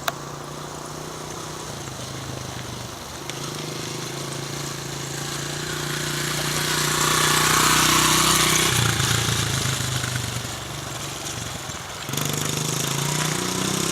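Honda CRF70F dirt bike's small four-stroke single-cylinder engine running at low speed, growing louder as the bike comes close about halfway through and fading again. Near the end it suddenly gets louder and its pitch steps up as the rider opens the throttle.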